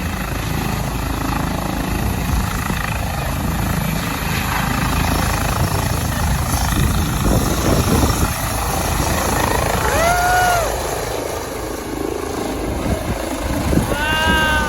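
Helicopter running loud close by as it lifts off, a steady rotor and engine din with a pulsing low end. Two short voice calls rise and fall over it, one about ten seconds in and one near the end.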